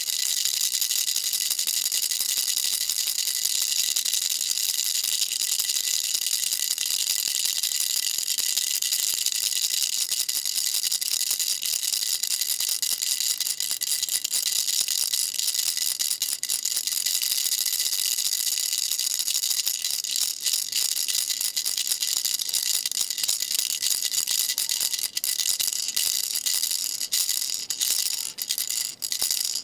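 Baby rattle shaken continuously, a dense steady rattling, with a few brief breaks near the end.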